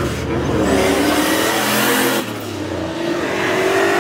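Car engine revving hard as the car accelerates away. The pitch climbs for about two seconds, drops, then climbs again.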